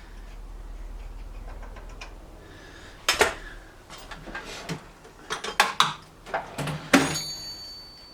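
Steel spanners clinking and clanking against each other and the metal hub, in a run of sharp knocks; the loudest, near the end, leaves a high ringing note.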